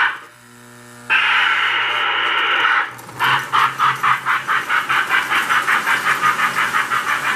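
Lionel postwar #746 J-class model steam locomotive running: a low electric hum, then about a second in a steady hiss lasting nearly two seconds. After that, a regular chuffing starts and speeds up to about four or five beats a second as the engine picks up speed.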